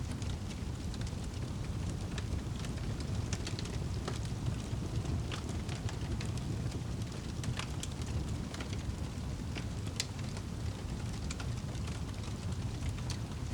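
Wood fire in a fireplace burning with a steady low rumble of flames and irregular sharp crackles and pops.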